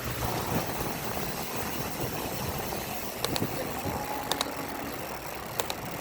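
Steady vehicle engine and road noise, with a few short sharp clicks about three, four and five and a half seconds in.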